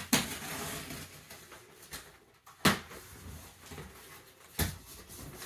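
A cardboard shipping box being handled and opened: rustling of cardboard and packaging, with three sharp knocks, one just after the start, one near the middle and one near the end.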